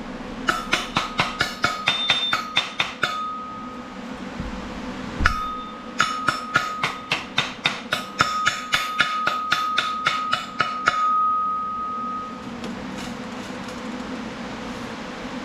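Hammer blows on steel, struck in two quick runs of about four to five a second, with the steel ringing a clear tone after each blow.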